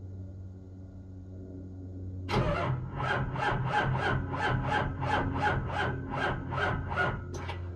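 Ford 7.3 L Powerstroke V8 diesel cranked on the starter with an even rasping rhythm of about three strokes a second. It does not catch, and the cranking cuts off abruptly near the end: a cold no-start.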